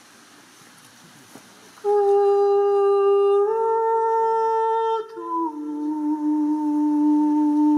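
A solo voice humming long, steady held notes, coming in about two seconds in, stepping up slightly, then moving to a lower note about five seconds in.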